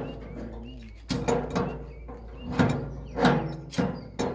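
Irregular knocks and scrapes of building work, about six in four seconds, with birds chirping faintly.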